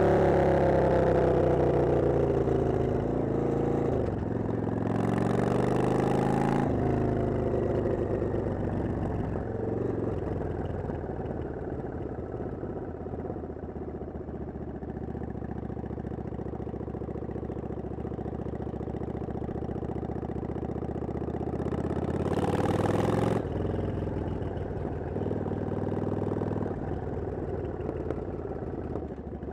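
Yamaha Drag Star XVS 650's air-cooled V-twin engine running on the move. Its exhaust note falls at first, then rises twice as the bike speeds up, with a steady stretch in between. Two brief bursts of hiss come as it speeds up.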